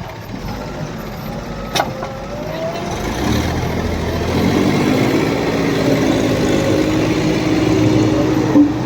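Mahindra 275 DI SP Plus tractor's three-cylinder diesel engine working hard under an overload of sand, growing louder and rising in pitch from about three seconds in. A sharp click about two seconds in.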